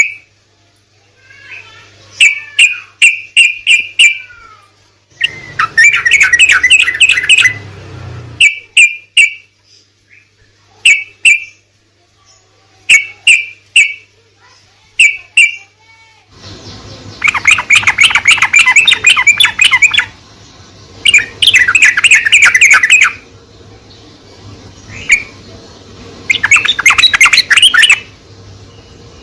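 Sooty-headed bulbul (trucuk) singing: short bright whistled phrases repeated every second or so, then from about halfway longer bursts of rapid chattering notes, each lasting two to three seconds. A faint low hum runs underneath.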